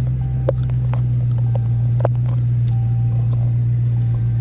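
Car engine running steadily, heard inside the cabin as a constant low drone, with a few faint clicks.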